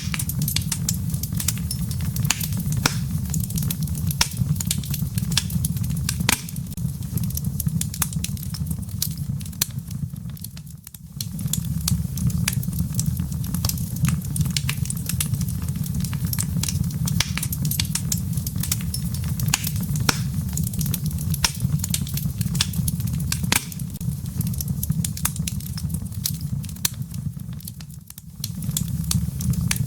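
Wood logs burning in a fireplace: dense, irregular crackles and pops over a steady low rumble of flame. The rumble fades briefly twice, about a third of the way in and near the end, and comes back abruptly each time.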